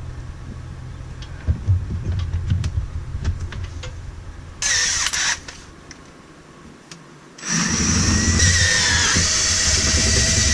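Power drill boring the drain-line hole through the van's metal floor with a larger bit. It starts with a short burst about halfway through, then, after a pause, runs steadily for about three seconds near the end. A few light knocks come before it.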